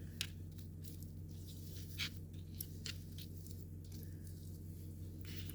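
Faint kitchen handling sounds from cooking greens, a few light clicks with soft squishing between them, over a steady low hum.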